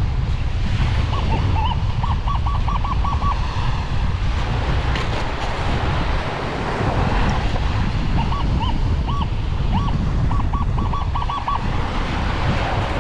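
Metal detector giving two runs of quick beeps over a buried target, each run a string of short identical tones, the second starting about eight seconds in. Wind buffets the microphone and surf rumbles underneath.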